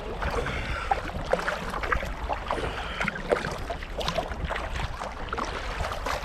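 Kayak paddle strokes in lake water: irregular splashes and drips as the blades dip and lift, over a low rumble of wind on the microphone.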